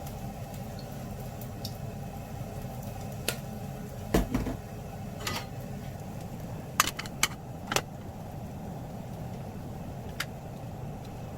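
A steady low hum with a handful of short, sharp clicks and knocks scattered through it, the loudest about four seconds in and a quick cluster near seven seconds.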